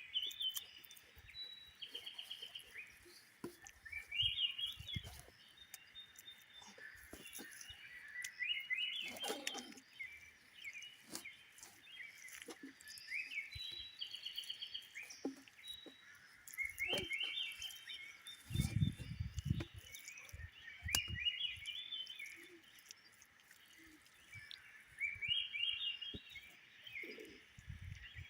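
A bird singing the same short phrase of quick notes over and over, about every four seconds. A few dull low thuds come between the phrases.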